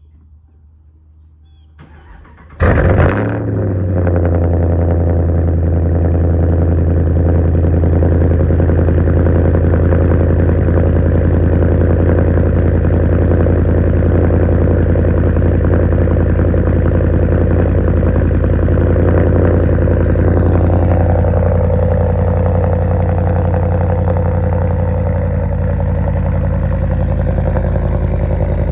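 Ram 1500's Hemi V8 with long-tube headers and straight pipes cold-starting: a brief crank, then it catches with a loud flare about three seconds in and settles into a steady, loud idle.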